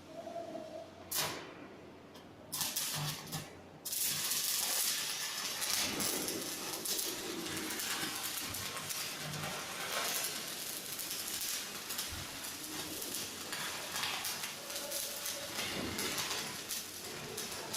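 Electric arc welding: a couple of short strikes, then from about four seconds in a steady crackling, sputtering arc.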